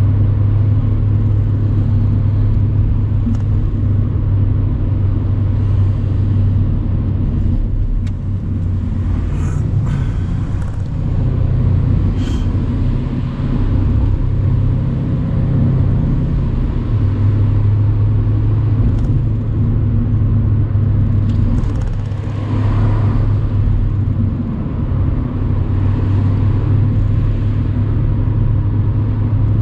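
Mercedes-AMG C63 cabriolet's 4.0-litre twin-turbo V8 running at steady cruising revs, with a stretch of higher revs in the middle and a brief dip a few seconds later, heard with the top down over road and wind noise.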